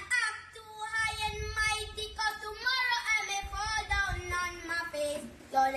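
A high voice singing a slow melody, holding notes and gliding between them.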